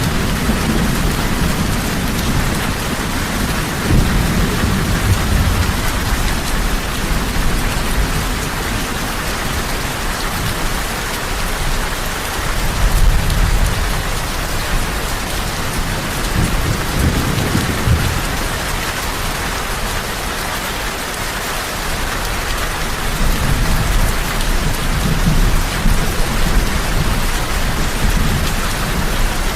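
Heavy rain falling in a steady hiss, with low rumbles of thunder swelling and fading several times.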